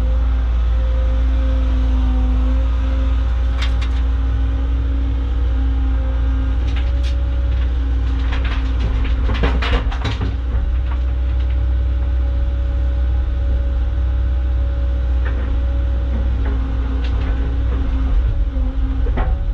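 Caterpillar excavator's diesel engine running steadily under hydraulic load while digging and loading. A few sharp clanks come near four and seven seconds in, then a burst of scraping and clanking around nine to ten seconds in, the loudest part.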